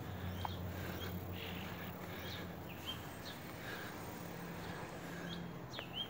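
Birds chirping outdoors: short, scattered chirps over a steady low hum.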